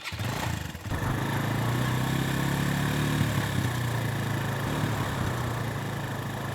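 Motorcycle engine running steadily at an even pitch, coming in about a second in.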